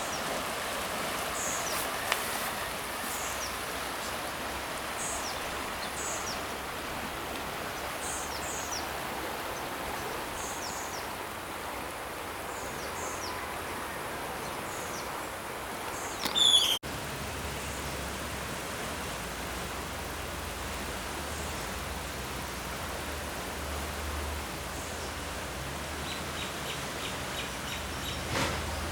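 Steady rush of a swollen, flooded river. Over it a bird repeats short descending calls about once a second, with one louder call just before a sudden break about halfway. After the break a low rumble joins the water, and a quick row of ticks comes near the end.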